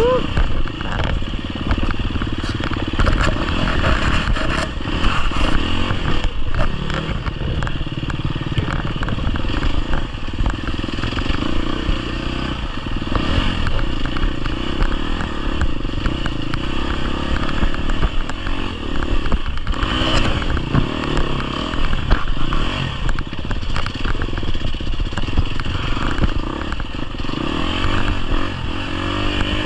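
GasGas EX250F's 250cc single-cylinder four-stroke enduro engine running under load on the trail, its revs rising and falling as the throttle is worked, with frequent short knocks.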